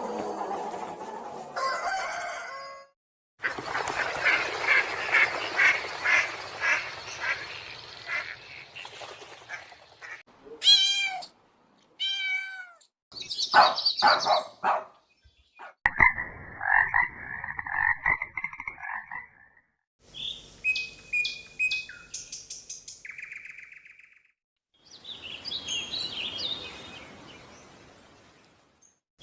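A string of different animal calls, cut one after another with short gaps. It includes a rapidly pulsed call lasting several seconds, short falling calls, and a run of high, short chirps near the end.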